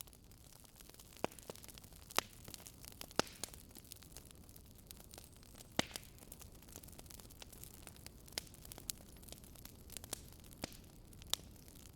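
Campfire burning: a low steady hiss with irregular sharp pops and crackles of burning wood, a few louder snaps scattered through.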